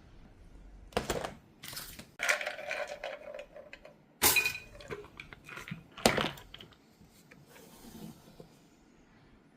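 Kitchen clatter of dishes and utensils: about five sharp knocks and clinks in the first six seconds, two of them ringing on briefly like struck crockery or metal, then lighter handling noises.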